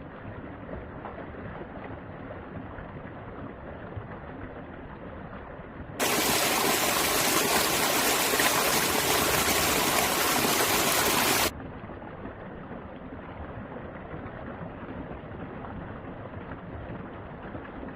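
Mountain stream water flowing and splashing steadily. About six seconds in, the sound jumps abruptly louder and fuller for about five seconds, then drops back just as suddenly.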